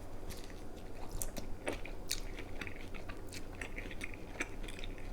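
A person chewing a mouthful of pizza, with many small irregular clicks throughout.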